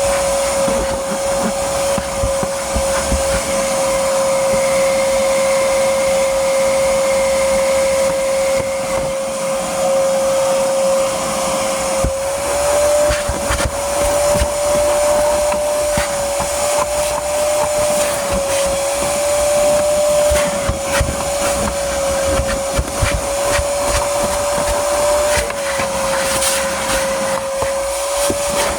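Vacuum cleaner running with a steady high motor whine that wavers slightly in pitch now and then, over a rush of air with scattered small clicks.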